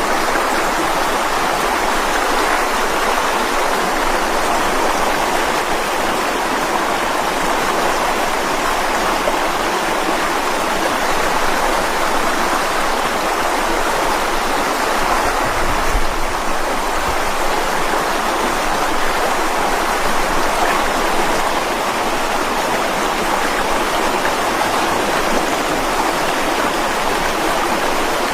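Mountain stream rushing over rocks in a steady, even wash of water noise, with a brief low rumble about halfway through.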